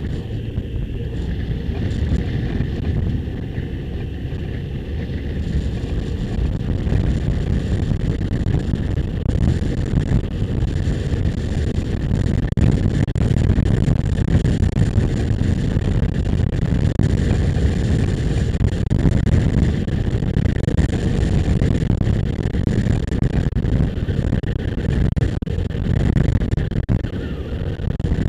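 A motorcycle riding along, with steady wind rush over the microphone and the engine running underneath at an even pace.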